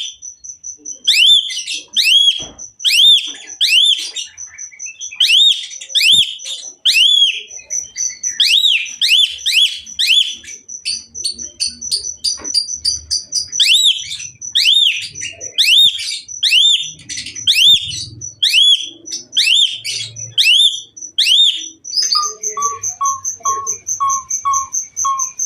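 Pied starling (jalak suren) singing hard, its song full of mimicked calls: loud arched whistled notes repeated about twice a second over a steady high ringing tone. Near the end it switches to a run of short, lower notes, about three a second.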